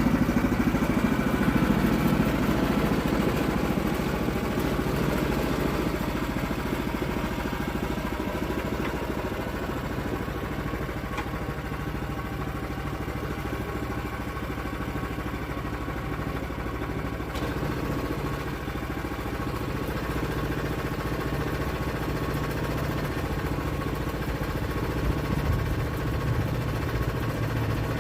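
Sawmill engine running steadily, a little louder in the first few seconds and then holding an even note.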